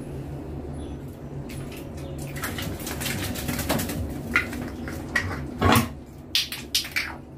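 Sounds of a golden retriever being bathed: a run of irregular splashes and knocks over a steady low hum, the loudest about five and a half seconds in.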